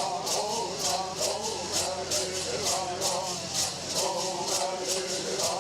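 Bird song: voices singing in a chanted melody over gourd rattles shaken in a steady beat.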